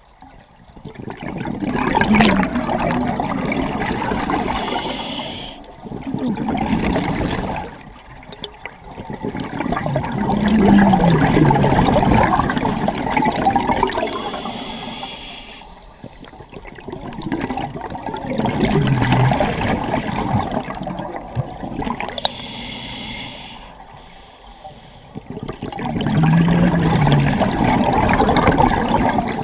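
Scuba diver breathing through a regulator underwater: each exhalation sends out a loud rush of bubbles lasting a few seconds, about every eight seconds, with quieter, hissing inhalations between.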